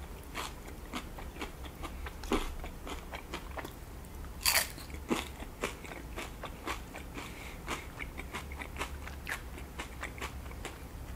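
Close-miked chewing of a mouthful of cheese-covered nacho tortilla chips: irregular crisp crunches as the chips break down, with one louder crunch about four and a half seconds in.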